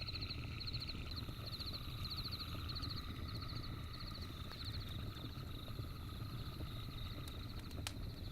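Night campfire ambience: insects chirping in short repeating pulses over a low steady rumble, with a couple of sharp crackles from the fire near the end.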